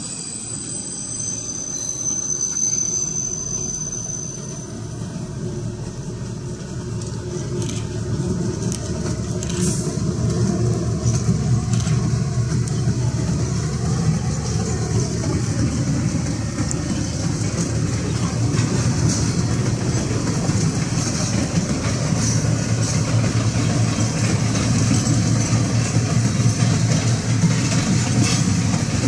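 Passenger train running along the line, a steady rumble that builds over the first ten seconds or so and then holds, with a few sharp clicks from the wheels.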